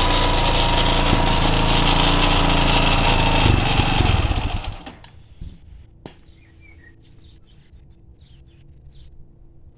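230 cc motorcycle engine idling steadily, then switched off about four and a half seconds in, running down and stopping. A few faint clicks follow.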